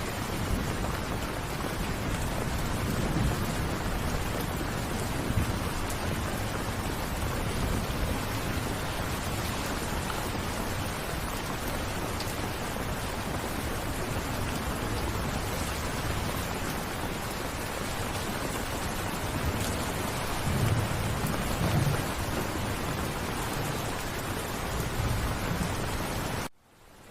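Steady rain falling, with low rumbles of thunder swelling a few times, strongest a little past the middle. Near the end the sound cuts off suddenly and comes back quieter.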